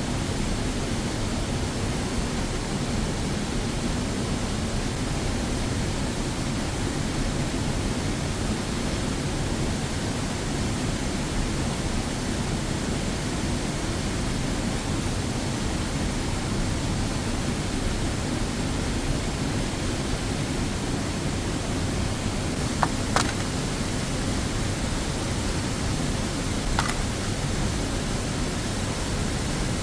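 Steady, even rushing of a waterfall, with a couple of brief clicks in the last third.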